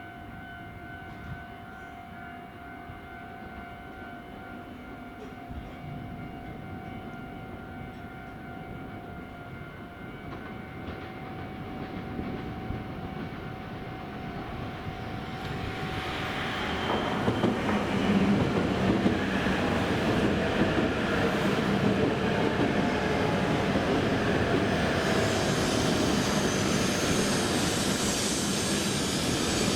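E7 series Shinkansen train pulling into the platform. Its running noise builds from about halfway through and stays loud to the end.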